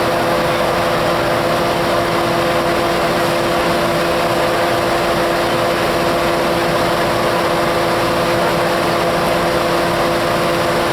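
Diesel locomotive idling: a steady drone with a constant hum that does not change.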